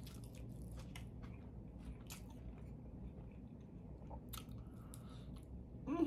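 A person chewing and biting a homemade cheeseburger and steak fries, with scattered small crunches and wet mouth clicks. A short voiced sound begins right at the end.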